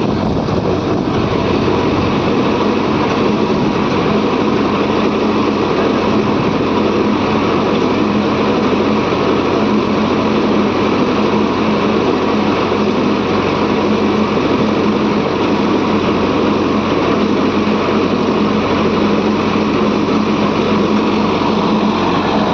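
Diesel engine running steadily at a constant speed, with a strong, even hum and no change in pitch.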